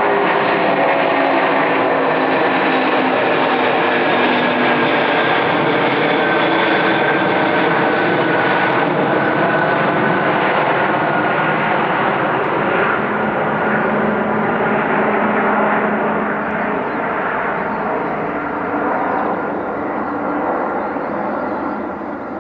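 Antonov An-124-100 Ruslan's four D-18T turbofan engines at takeoff power, a loud steady jet roar with several whining tones that slowly fall in pitch. The sound fades over the last several seconds as the aircraft moves away.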